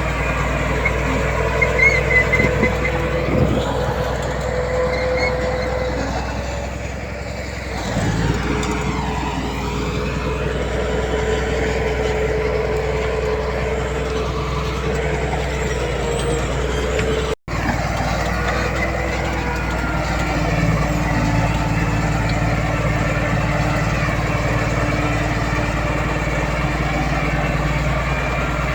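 Heavy diesel earthmoving machinery, a bulldozer and dump trucks, running steadily with an even engine drone. The sound cuts out for an instant a little past halfway through.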